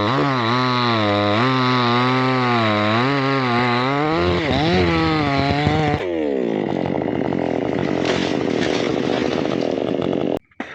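Two-stroke chainsaw running under load as it cuts teak, its engine pitch rising and falling. About six seconds in the sound changes abruptly to a rougher, lower sawing noise, which stops sharply just before the end.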